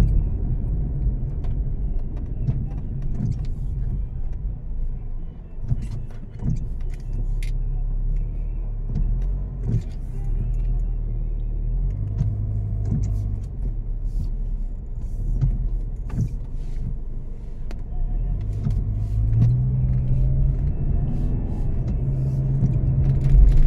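Engine and road rumble heard from inside a moving vehicle, the low engine note shifting a few times, with scattered light clicks and knocks.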